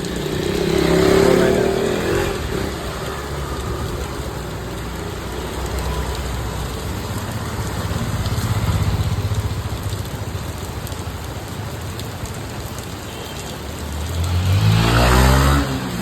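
Steady rain falling on a street while motor vehicles pass by on wet road, one about a second in, one around the middle, and a louder one near the end.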